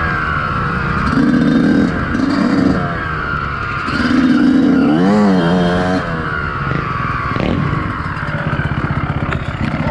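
Motocross bike engine revving hard and dropping back repeatedly as it is ridden and shifted along a trail, with a sharp rev rise and fall about five seconds in.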